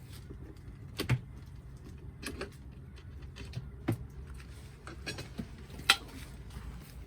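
Short sharp knocks and clicks of beehive handling, wooden frames and boxes being worked with a hive tool, about four louder ones spread out with the loudest near the start and another near the end, over a steady low hum.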